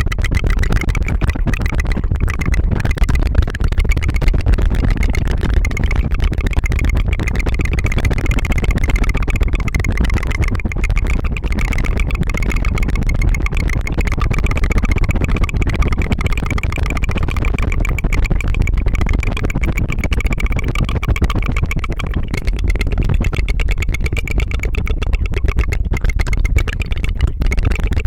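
Rapid tongue fluttering close to the microphone: a steady, unbroken rattling trill with no pauses, resembling a small idling motor.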